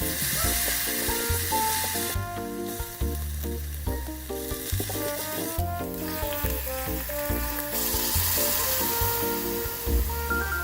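Food sizzling as it fries in a hot pan; the sizzle drops away briefly twice. Background music plays underneath.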